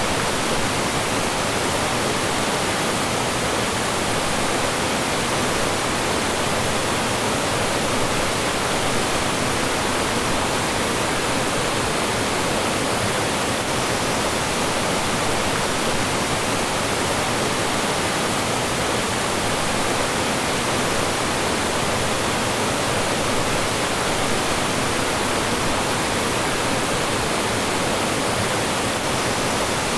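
Mountain stream rushing and splashing over rocks, a steady, even rush of flowing and falling water.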